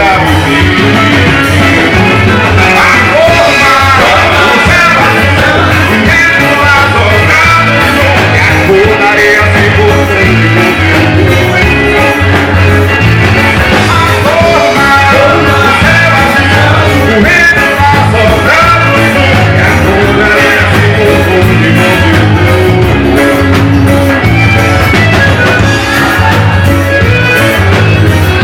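Live forró band playing a xote with a steady, even beat: accordions, zabumba bass drum, triangle, bass, guitar and drum kit.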